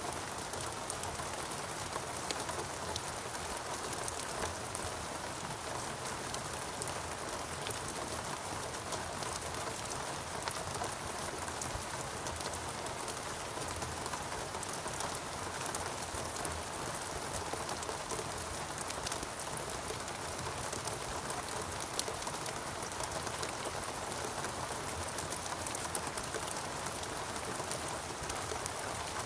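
Steady heavy rain falling on foliage and ground, a constant hiss with individual drops pattering through it and a few louder drips now and then.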